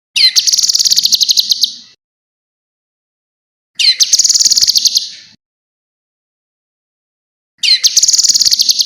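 A small songbird singing a rapid, high trill of sharp notes, three times, each burst lasting about a second and a half and opening with a quick sweep, with dead silence between the bursts.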